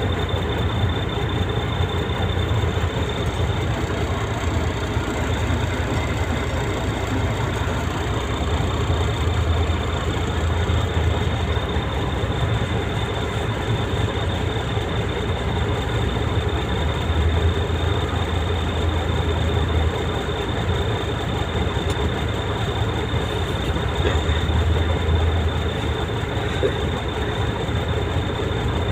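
Heavy truck engine running steadily, a low rumble with a thin, steady high whine.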